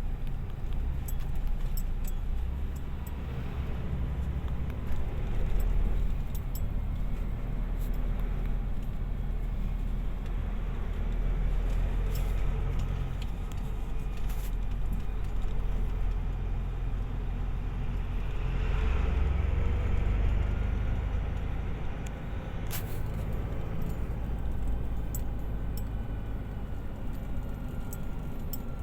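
Outdoor ambience in a light rain shower: a steady low rumble with scattered sharp ticks, swelling for a few seconds about two-thirds of the way through.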